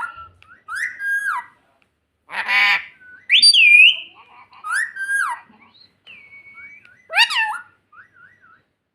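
Indian ringneck parrot giving a string of short whistled calls that glide up and down in pitch, with one harsher, raspy call about two and a half seconds in.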